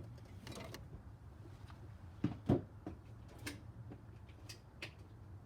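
A few scattered light clicks and knocks of hand tools being handled on the engine, with two sharper knocks close together about two and a half seconds in, over a low steady hum.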